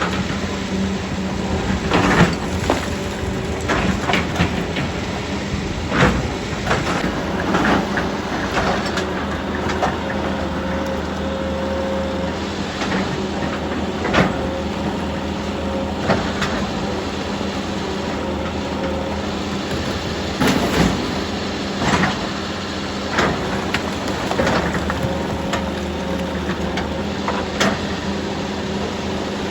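Heavy diesel machinery running steadily while rock is worked, with irregular clanks and knocks of stone against steel, about a dozen over the stretch.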